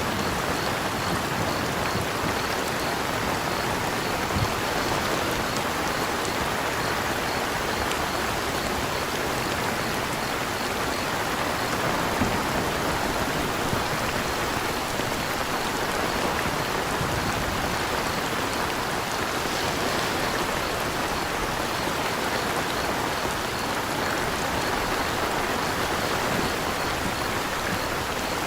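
Steady rain falling in an even patter, with a faint high cricket chirp repeating at a regular pace underneath.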